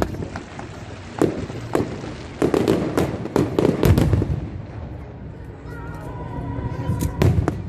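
Fireworks bursting in rapid succession, sharp bangs mixed with crackling, thinning out after about five seconds.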